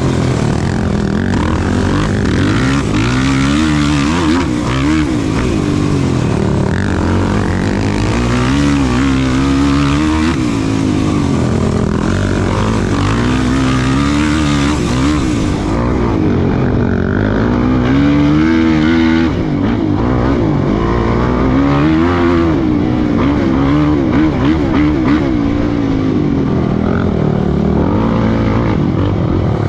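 Off-road racing ATV engine running hard, its pitch rising and dropping again and again as the throttle is opened and closed.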